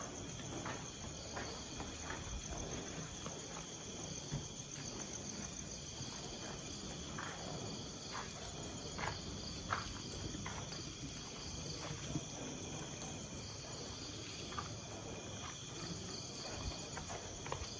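Steady night chorus of crickets chirring in several high pitches, with faint, irregular footsteps or taps underneath.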